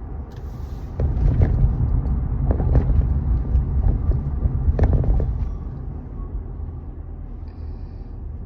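Car driving over a rough road, heard from inside the cabin: a low rumble that swells about a second in, with several knocks and jolts over a few seconds, then settles back to a quieter steady road rumble.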